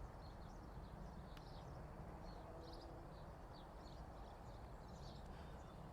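Faint outdoor ambience: small birds chirping repeatedly over a low, steady rumble of distant road traffic.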